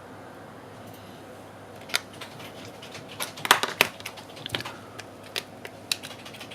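A run of sharp, irregular clicks and taps from small hard objects being handled, starting about two seconds in.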